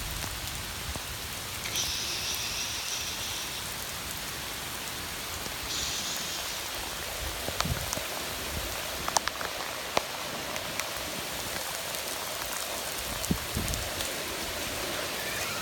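Steady heavy rain falling, with scattered sharp ticks of single drops hitting nearby, and two short high buzzes a few seconds in.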